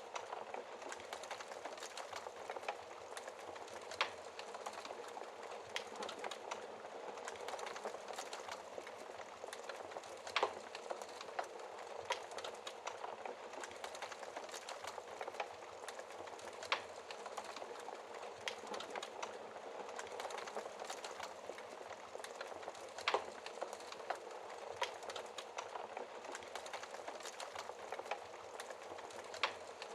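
Wood fire crackling steadily in a fireplace, a dense run of small snaps with a louder sharp pop every six seconds or so.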